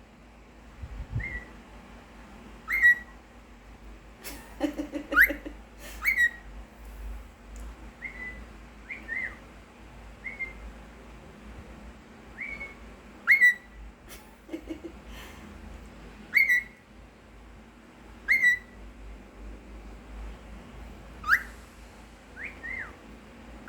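Cockatiel whistling a series of short, rising chirped notes, about one every second or two.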